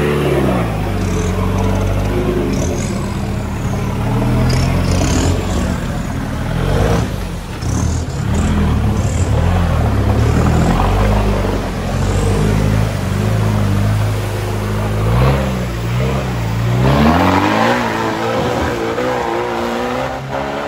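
Off-road 4x4 engine running hard under load, its revs rising and falling over and over, with a sharp climb in revs about three-quarters of the way through.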